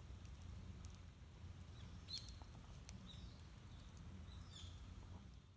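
Quiet outdoor ambience with a few short, high bird chirps that drop in pitch, over a low steady rumble and faint scattered clicks.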